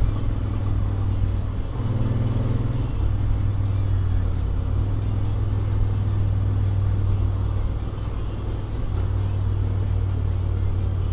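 Honda X-ADV 750's parallel-twin engine, on its stock exhaust with an Akrapovic manifold, running steadily under way. The engine note rises briefly about two seconds in, then settles back.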